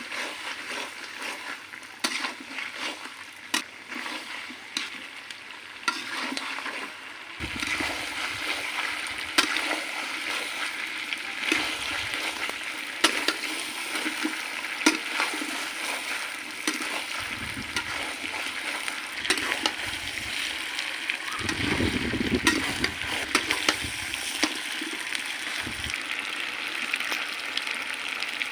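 Chicken frying and sizzling in a pan while it is stirred, with a utensil clicking and scraping against the pan again and again. The sizzle grows louder about seven seconds in.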